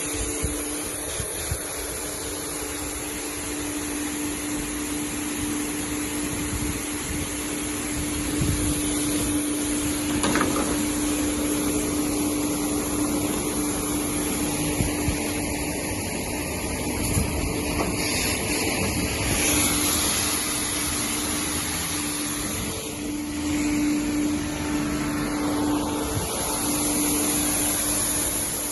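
Semi-Stal Compact 1½ crate washing machine running: a steady hum under a continuous rushing noise, swelling a little louder now and then.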